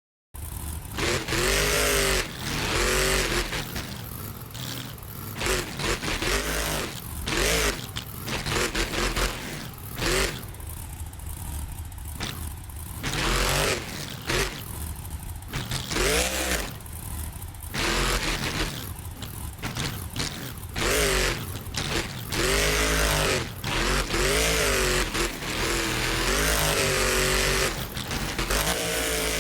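Monster truck engine revving hard in repeated bursts, its pitch sweeping up and falling back every second or two, with some longer stretches held at full throttle.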